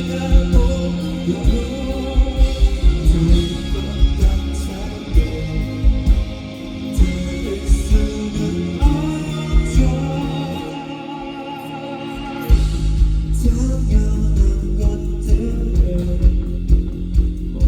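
Live rock band music with singing and a steady drum beat; the drums and bass drop out for a couple of seconds past the middle, then come crashing back in together.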